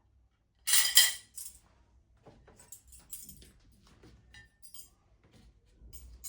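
Household handling sounds: a short clinking clatter about a second in, then scattered light clicks and knocks.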